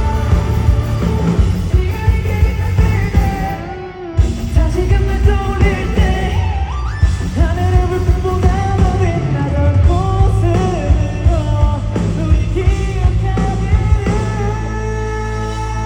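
Live rock band playing with a lead vocal over drums, bass and guitars. About four seconds in the band drops out briefly, then crashes back in.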